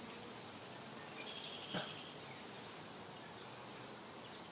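Faint outdoor background at an open beehive: a steady hiss, a brief high chirp about a second in, and a single light click just before two seconds.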